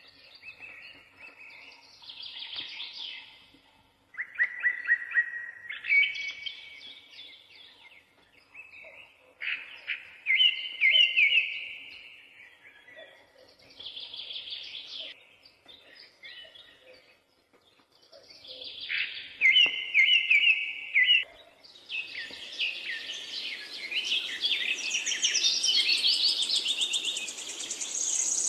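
Songbirds singing in short phrases of quick chirps and trills, one every few seconds; near the end several birds sing at once in a denser chorus.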